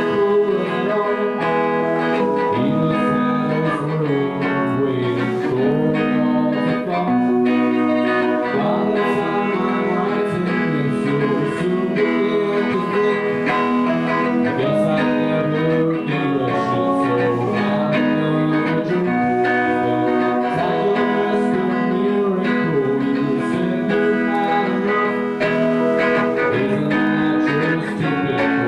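A live band playing a guitar-led song.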